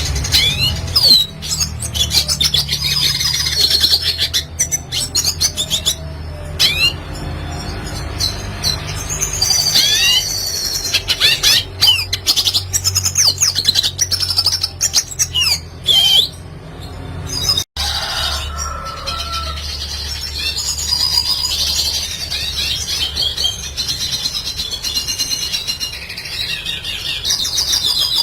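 Red siskin singing: a fast, continuous twittering song of chirps and quick sliding whistled notes, with a low steady hum underneath. The song cuts out for an instant a little past halfway, then carries on.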